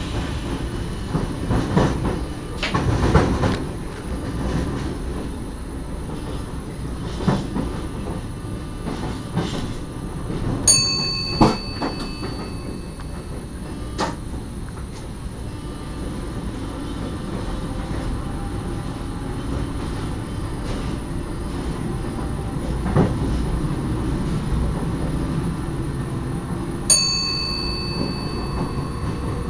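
Electric passenger train running on track, heard from on board: a steady low rumble with scattered clicks and knocks of the wheels over rail joints and switches. Two short, high ringing tones sound, about eleven seconds in and again near the end.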